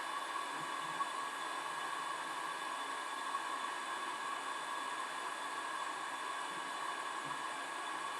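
Steady rush of blown air with a faint constant fan whine, the sound of a hot-air rework station running as used to lift or reflow a Tristar charging chip.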